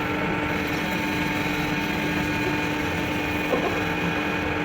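Steady hum of a running motor holding one constant pitch, with no change in speed.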